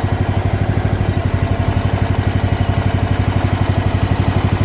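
MX-12 mini excavator's small engine running steadily with a fast, even pulsing, while the machine is run to test a refitted track drive motor seal for leaks.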